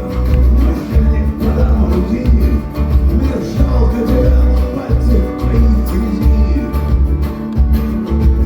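Live band playing an instrumental passage of a song, with a heavy bass pulsing in a steady beat under guitar and other instruments.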